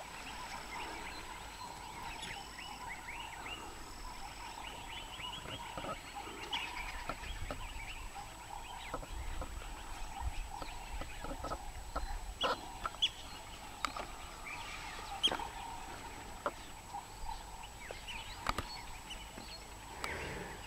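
Wild birds calling, with many short sharp chirps and a high whistled note repeated three times in the first few seconds.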